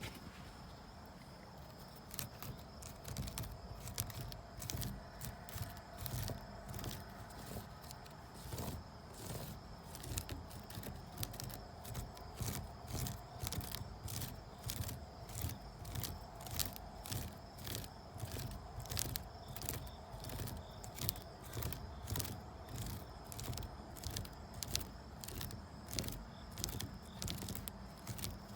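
A rope being scratched close to the microphone, in short rasping strokes about twice a second that start about two seconds in and keep going.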